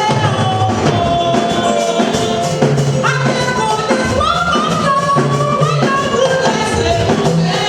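Church gospel music: voices singing a held melody over bass and busy percussion.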